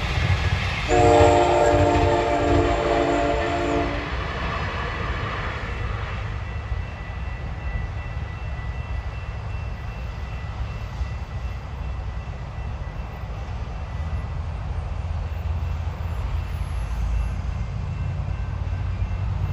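Electric commuter train sounding its horn at a grade crossing: a several-note horn blast about a second in that lasts about three seconds, then the train rumbling past steadily.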